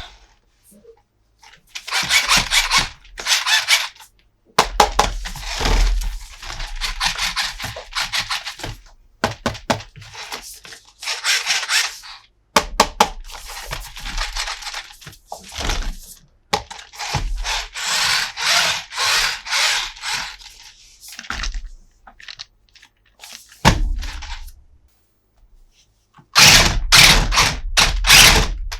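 Plastic toy pieces being handled and set down: repeated bursts of clattering and rattling, about a second or two each, with sharp clicks and knocks between them.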